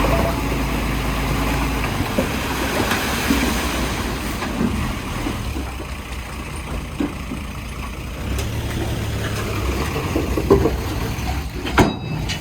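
Diesel engine of heavy earthmoving equipment running steadily, with scattered knocks and a sharp clank near the end.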